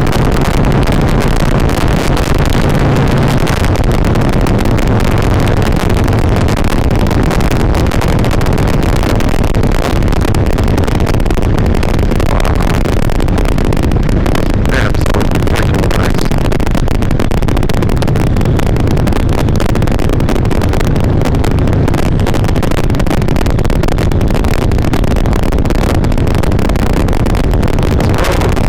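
Harley-Davidson motorcycle running at riding speed, its engine and the rush of wind picked up by a helmet-mounted GoPro microphone. The sound is loud and steady, and the recording is distorted by clipping.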